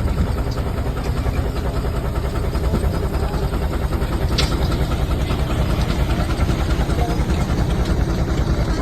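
A steam traction engine runs steadily with a rapid, even beat. There is a single sharp click about four and a half seconds in.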